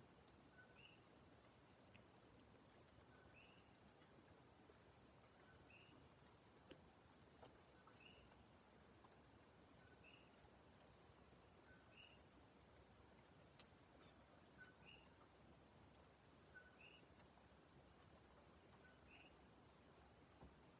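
Crickets trilling in the night, a steady high-pitched trill, with a fainter short chirp repeating about every two seconds.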